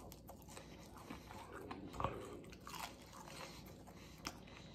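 Someone biting and chewing a fried onion ring: soft, scattered crunches of the breaded coating, the loudest about two seconds in.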